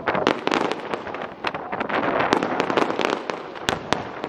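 Aerial fireworks bursting: a dense, irregular string of sharp pops and crackles from many overlapping shells, several a second.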